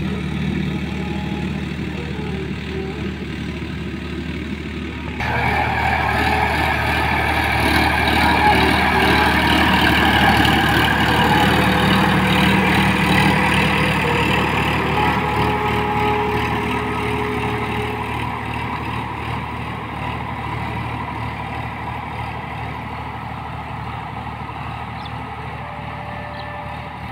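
Sonalika RX 50 4WD tractor's diesel engine running steadily. About five seconds in it turns suddenly louder and harsher, then eases off slowly.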